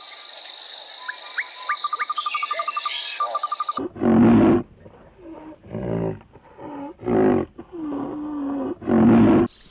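A steady cricket chorus with chirping bird calls cuts off abruptly a little under four seconds in. A large animal follows with a series of deep, loud roars and grunts, about seven calls, the first and last the longest and loudest.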